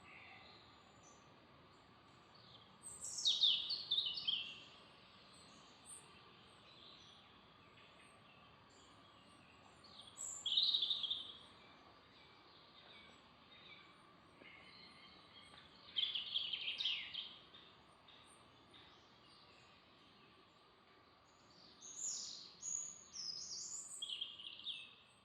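Songbird singing in short phrases of quick, high chirping notes, four phrases about six seconds apart, over a quiet background with a faint steady high tone.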